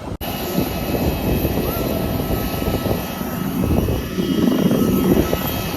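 Jet airliner noise: a steady loud rush with thin, high whining tones over a low rumble that swells in the second half.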